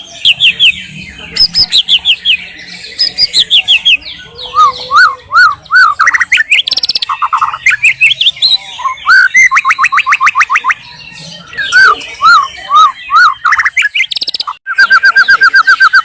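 White-rumped shama singing a loud, varied song: runs of repeated whistled notes, some rising and falling, with short breaks between phrases and a fast, even string of notes near the end.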